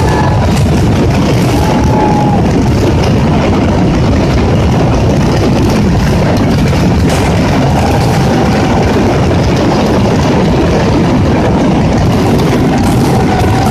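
Mascletà firecrackers going off in a dense, unbroken barrage, the rapid bangs merging into a steady roar. Short whistling tones rise above it a few times.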